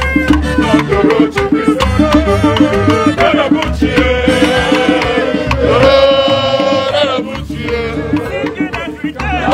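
Live Igbo ogene band music: fast, dense drum and percussion strokes, with long held melodic notes in the middle.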